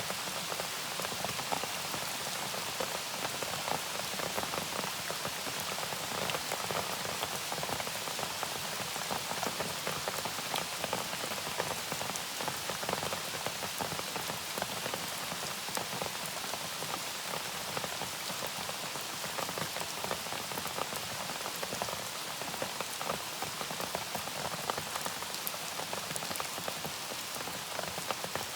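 Steady rain falling on a surface: a constant hiss made of many individual drop ticks, unchanging throughout.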